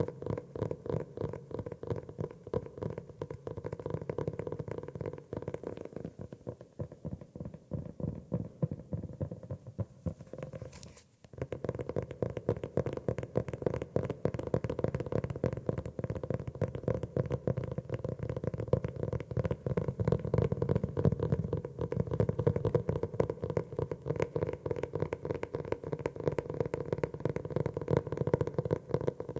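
Rapid, continuous tapping on a notebook, many taps a second, which eases off and stops briefly about eleven seconds in, then resumes a little louder.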